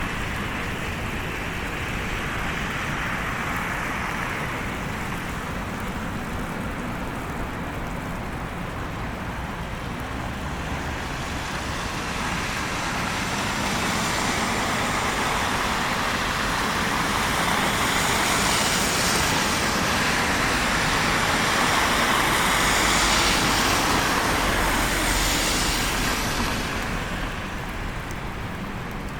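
Road traffic on a snow-covered street: the tyre and engine noise of a vehicle swells as it passes close, loudest a little past the middle, then fades near the end.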